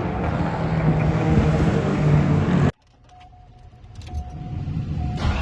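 Car engine running steadily, cut off abruptly a little under three seconds in; then a near-silent stretch with a faint steady tone, building up again near the end.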